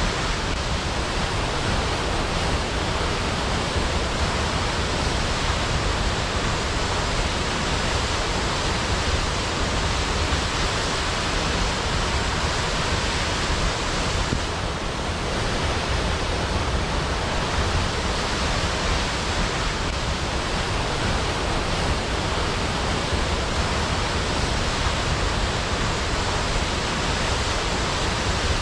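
Waterfall: the steady rushing of falling water, an even, unbroken noise.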